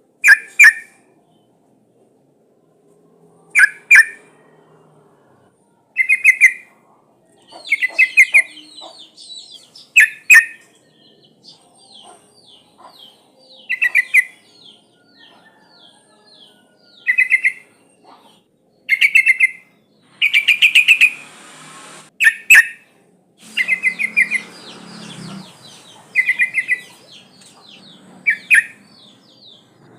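Yellow-vented bulbul (trucukan) giving short, loud bubbly calls, one every two to three seconds, with a fainter fast run of high chirps in between for several seconds mid-way. The uploader presents it as a female in breeding condition calling males, used as a lure recording.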